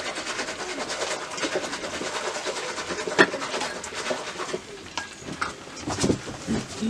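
Birds calling, with one sharp knock about three seconds in.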